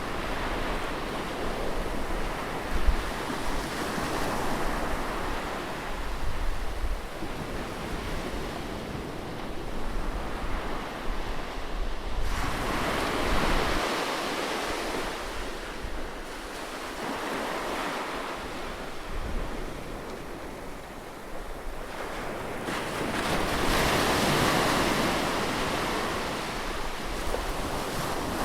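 Ocean waves breaking and washing up on a beach, the surf swelling and easing every few seconds, with wind buffeting the microphone.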